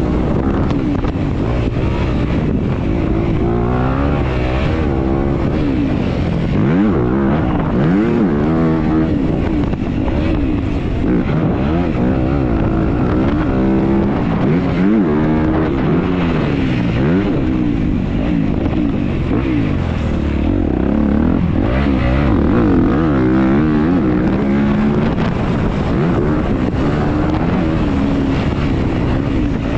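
Motocross dirt bike engine heard close up from on the bike, its pitch rising and falling again and again as it is revved through the gears and rolled off.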